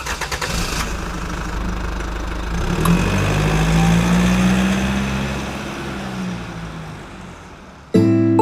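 Engine of a Hyundai Porter LPG-based camper van running. It picks up in pitch about three seconds in, then fades away.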